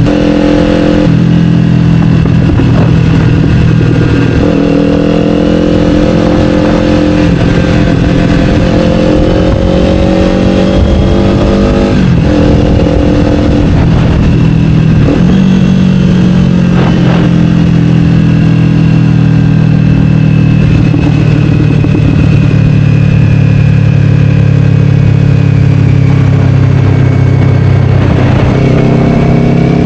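Kawasaki Ninja 500's parallel-twin engine through an Akrapovic slip-on exhaust, under way. The engine note climbs as it accelerates, drops at gear changes about twelve and fifteen seconds in, then holds steady and slowly eases off before rising again near the end.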